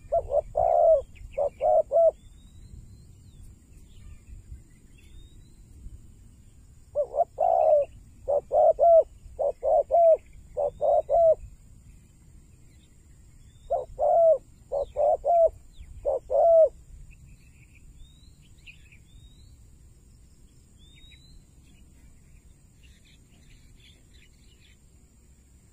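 Spotted dove cooing in three phrases of repeated low coo notes, with a pause of several seconds between phrases. Small birds chirp faintly in the background.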